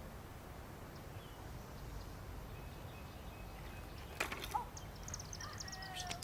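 Quiet outdoor ambience with two sharp clicks about four seconds in, followed by a quick run of high, bird-like chirps.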